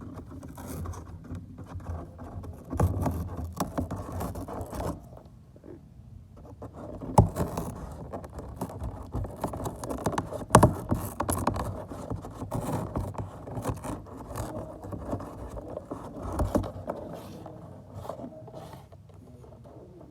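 Amazon parrot scratching, scraping and knocking at a box, with irregular rustling and several sharp knocks.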